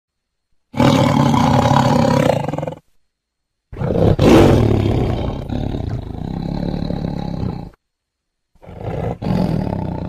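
Tiger roaring loudly: three long, deep roars, the middle one about four seconds long and the last still going at the end, with dead silence between them.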